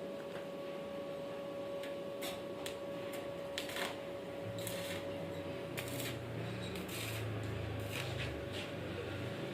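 Scattered light clicks and taps, like tools and metal parts being handled, over a steady faint hum, with a low rumble coming in about halfway through.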